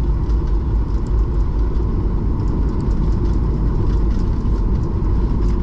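Steady low rumble inside the cabin of a Boeing 737-800 taxiing after landing, with its engines at idle.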